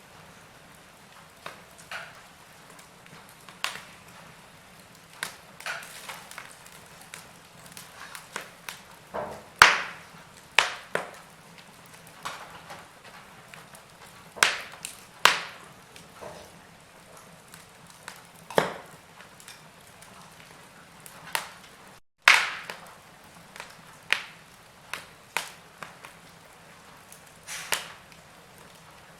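Wood fire in a fireplace crackling, with irregular sharp pops over a faint steady hiss; the loudest pops come about ten seconds in and again about two-thirds of the way through, just after a split-second dropout.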